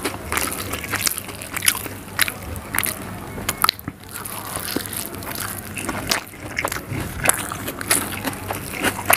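Close-miked wet chewing and biting of soft egg omelette soaked in spicy gravy, full of many short, sharp wet clicks.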